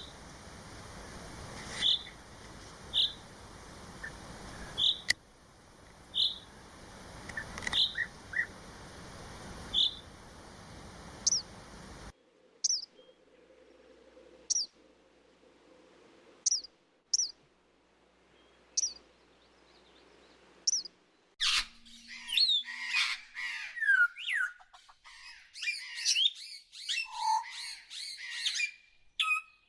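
Recorded birdsong in three spliced sections. First come short high chirps repeated about once a second over a steady hiss. Then sparse, thin, high calls every couple of seconds, and from about two-thirds of the way in a dense chorus of rapid, varied song.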